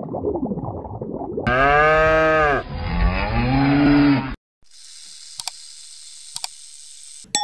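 Low muffled sound, then a cow mooing twice, two long loud calls back to back, the second lower. After them comes a subscribe-button sound effect: a soft hiss with two mouse clicks and a bell ding near the end.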